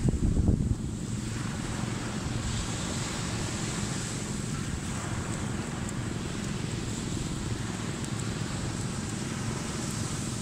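Ocean surf washing steadily, with wind buffeting the microphone, loudest in a low rumble in the first second.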